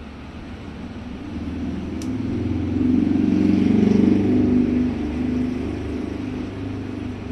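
A motor vehicle passing by: its engine rumble swells to a peak about three to four seconds in, then fades. There is a single sharp click about two seconds in.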